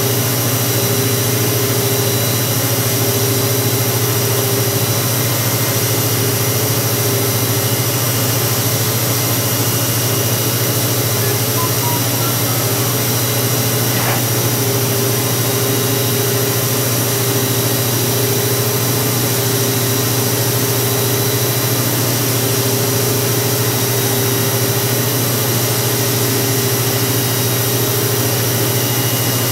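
Haas VF-2 CNC vertical mill running while it machines an aluminium-type part: a steady, unbroken machine sound with a low hum and several steady high-pitched tones.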